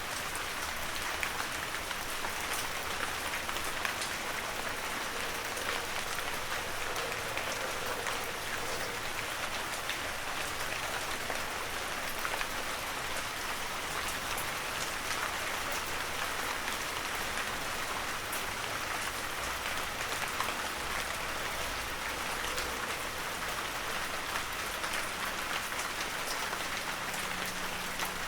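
Heavy rain falling steadily, a dense even hiss of drops with fine individual drop patters throughout.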